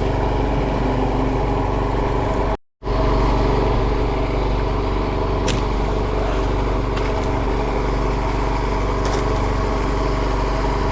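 Fishing boat's engine running steadily, its sound cutting out completely for a moment about two and a half seconds in.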